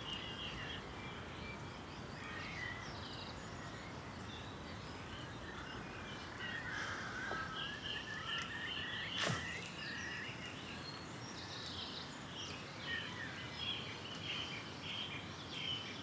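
Outdoor ambience of small birds chirping over a steady hiss, with one sharp click about nine seconds in.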